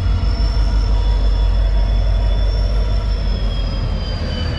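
Running rumble of a moving passenger train's LHB coaches, heard at an open coach door, with a thin high-pitched squeal from the wheels that rises slightly and falls back.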